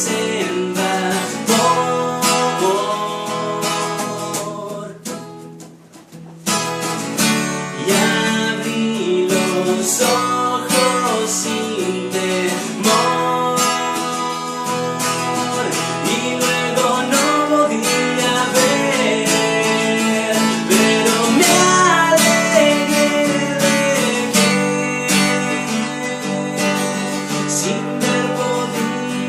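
Acoustic guitar played in an instrumental passage of a song, strummed and picked chords with melodic runs. The playing thins out briefly about five seconds in, then picks up again a second or so later.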